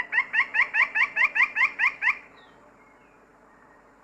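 Lineated woodpecker giving a fast series of strident yelping calls, about five rising notes a second, stopping a little over two seconds in. The calls are a territorial call warning off rival males.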